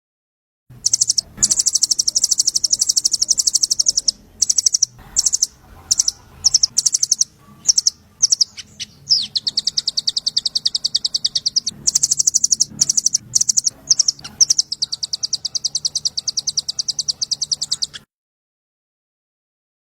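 Small songbird giving a very fast, high trill of rapidly repeated notes in long runs broken by short pauses. It starts about a second in and cuts off abruptly near the end.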